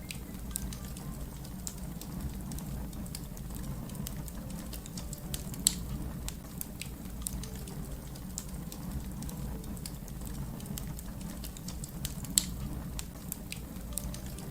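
Wood fire crackling: a steady low rumble under many small, quick crackles, with a louder pop about six seconds in and another near the end.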